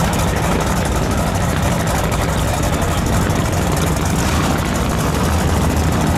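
Gasser drag car's engine idling steadily at the start line.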